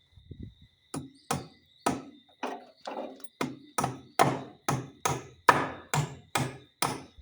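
Hammer driving a nail, a steady run of sharp blows about three a second starting about a second in.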